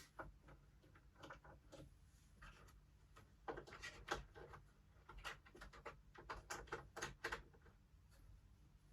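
Faint clicks and taps of small plastic toy pieces being handled, in a cluster about three and a half seconds in and again from about five to seven and a half seconds.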